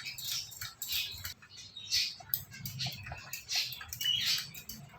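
Quiet, short scratchy rustles at about two a second, made by a pet Indian ringneck parrot moving about.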